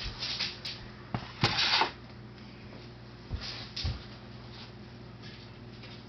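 Scattered rustling and a few sharp knocks from things being handled indoors, the loudest a rustle about a second and a half in, over a faint steady low hum.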